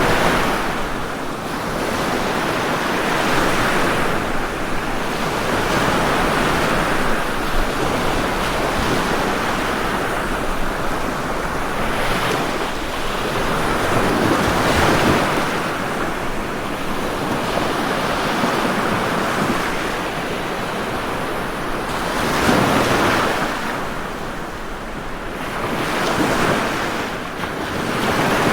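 Ocean waves breaking and washing on a shore, a continuous surf sound that swells and eases every few seconds, with stronger surges at about half a minute's middle and near the end.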